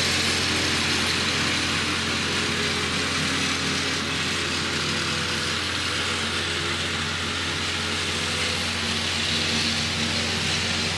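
Massey Ferguson 35 tractor engine running steadily while mowing grass.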